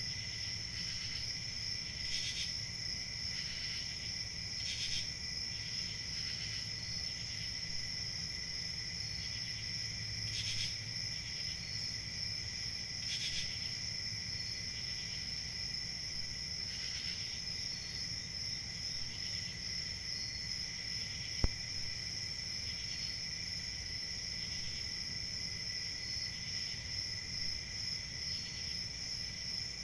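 A chorus of crickets chirping: a steady high trill layered with a lower one, with louder pulses of chirping every second or two, over a faint low hum. A single sharp click stands out about two-thirds of the way through.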